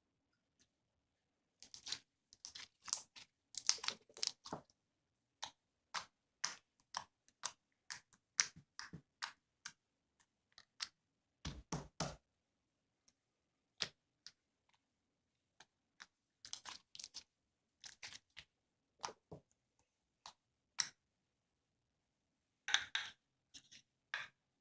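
Irregular short clicks and rustles, some in quick clusters, with a couple of duller knocks about halfway through.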